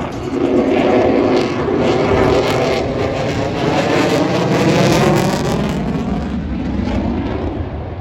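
Jet noise from an F-35A Lightning II's single afterburning turbofan as the fighter makes a pass. The roar swells about half a second in, with a sweeping, shifting tone as it goes by, and eases off over the last couple of seconds.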